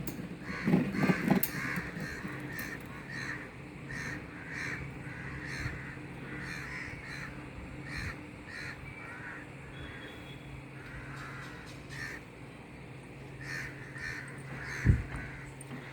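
Birds calling again and again with short harsh calls, loudest in the first second or two. A single low thump about fifteen seconds in.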